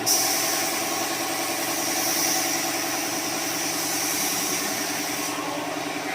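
Spray gun hissing as it sprays sanding sealer, starting at once and cutting off about five seconds in, over the steady hum of an air compressor running.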